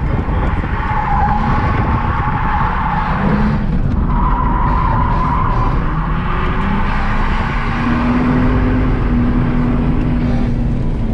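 Car drifting: tyres squealing in long stretches over a loud engine held high in the revs, the engine note climbing in the second half.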